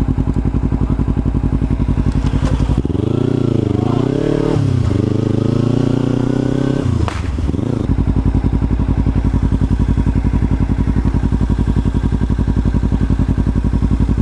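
Motorcycle engine running while riding, steady at first, then revving up and down and holding higher revs for a few seconds before dropping back to a steady cruise.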